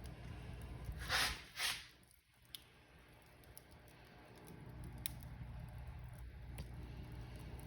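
Wood fire crackling in a fireplace: a low steady rumble with scattered sharp pops, and two louder hissing crackles about a second in. The rumble drops away for a few seconds in the middle and then comes back.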